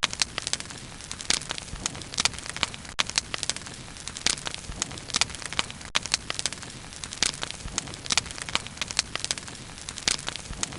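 Bonfire burning steadily, with irregular sharp crackles and pops over a soft hiss.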